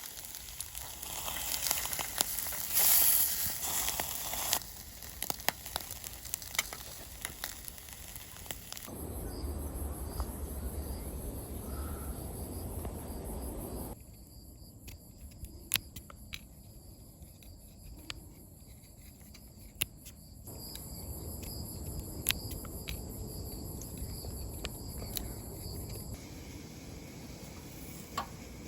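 Food sizzling and frying in a pan, with scattered sharp clicks and taps. The background changes abruptly several times.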